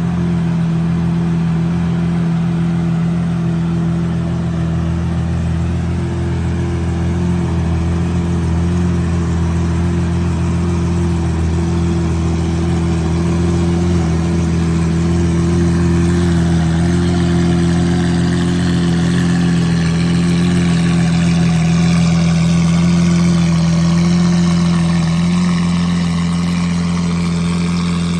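Lamborghini Aventador's V12 idling steadily through an aftermarket exhaust. It is a low, even engine tone that holds a constant pitch, with no revs.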